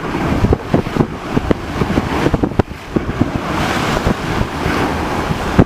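Wind buffeting the microphone aboard a yacht at sea, a steady rush of noise broken by many short low thumps, with water and wave noise underneath.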